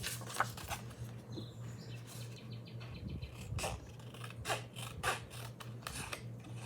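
Irregular light clicks and rustles of snap-button jewelry being picked up and handled, over a steady low hum.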